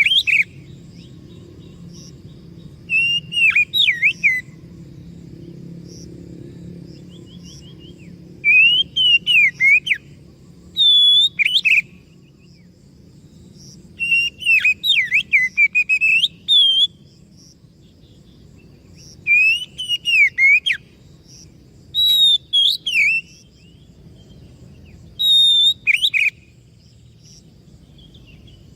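Oriental magpie-robin singing: short bursts of loud, varied whistled phrases every few seconds, over a faint low background noise.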